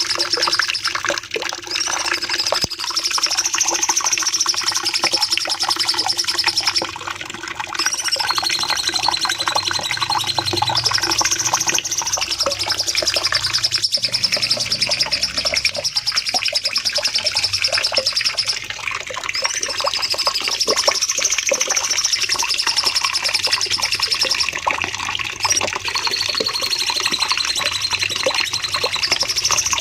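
Cucak cungkok (orange-spotted bulbul) singing continuously in long, busy phrases, with a high wavering trill that recurs every several seconds, like a looped training recording.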